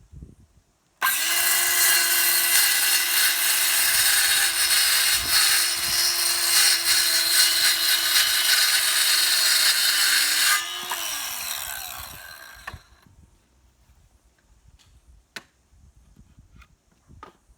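Handheld circular saw starting up and cutting through a piece of wood with a steady high whine, then released, its blade winding down in falling pitch about eleven seconds in.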